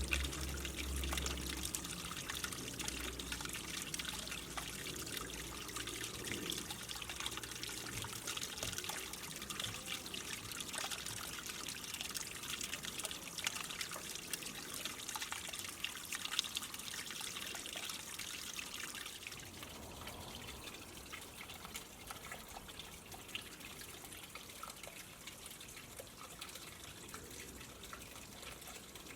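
Water from a small pre-formed waterfall spillway trickling and splashing into a garden pond. It grows a little softer about two-thirds of the way through.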